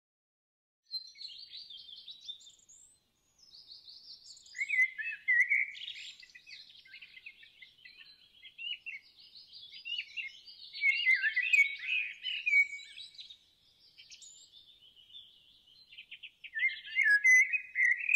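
Birds singing: many short high-pitched chirps and trills in clusters with short gaps, starting about a second in.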